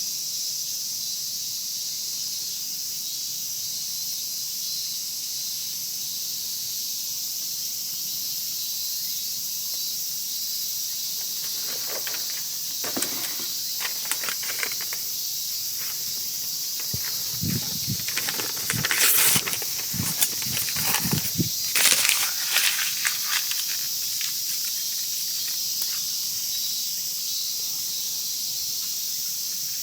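A steady high chorus of insects such as crickets over a wood fire, with a spell of crackles, pops and knocks starting about twelve seconds in and loudest a little past the middle.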